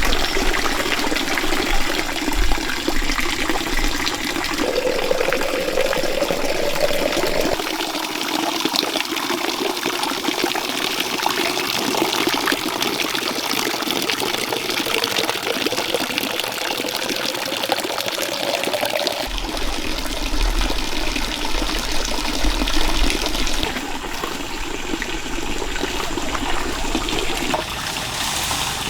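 Water pouring and trickling steadily into a container, with a faint tone that rises slowly as the vessel fills, twice.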